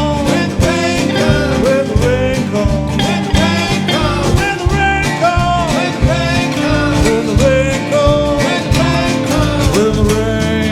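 A country-rock band playing an instrumental break: a lead line of bending, sliding notes over a steady bass and drum beat.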